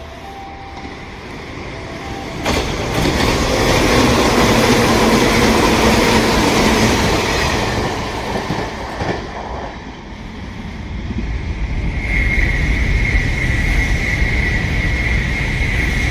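Sanyo Electric Railway train passing through the station: a loud rush of wheels and running noise builds a few seconds in and fades. Then a train's running rumble returns with a steady high squeal or whine over it.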